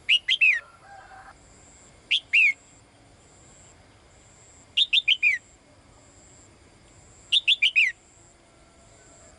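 Female caged songbird calling to a male: four short bursts of three or four quick downward-sliding whistled notes, each burst a couple of seconds apart.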